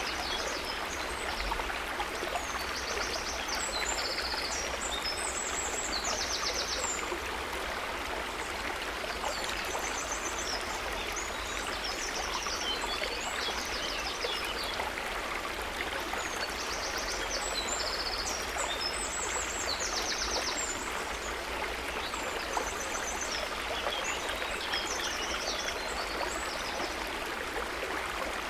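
River water running with a steady rushing sound, with clusters of high, fast-pulsed chirping calls repeating over it.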